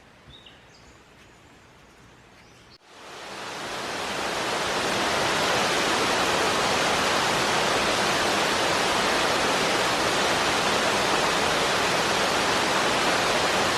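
Quiet forest with a few faint high chirps, then about three seconds in the rushing of a waterfall swells up over a couple of seconds and runs on as a steady, loud hiss of falling water.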